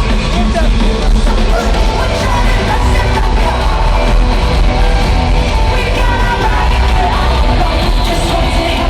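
Loud live rock band performing, with drums, distorted guitars and bass under a sung vocal, recorded on a phone in an arena; the sound is dense and heavy in the low end.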